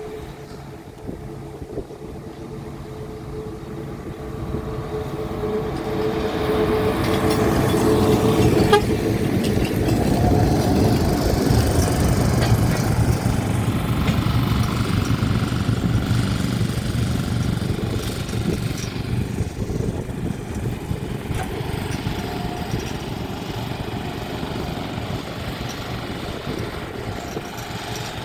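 Sugar cane train passing by. The diesel locomotive's engine and the rumble and clatter of the cane wagons build up, are loudest about ten seconds in, then slowly die away.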